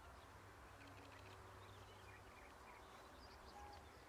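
Near silence: faint outdoor background with a low hum and a few faint, scattered bird chirps.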